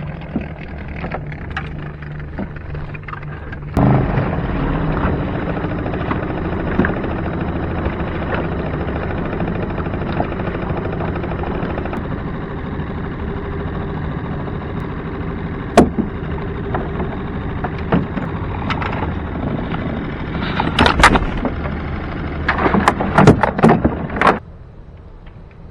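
Yamaha 2 hp outboard motor running on a small boat under way, louder from about four seconds in, with wind and water noise. Sharp knocks come toward the end, where the noise stops suddenly.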